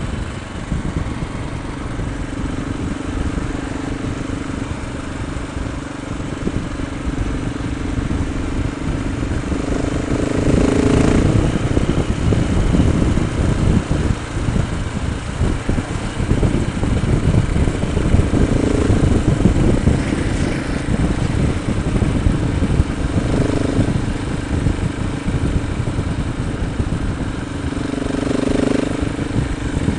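A motorcycle engine running under way, with heavy wind and road rumble. The engine note swells louder twice, about ten seconds in and again near the end.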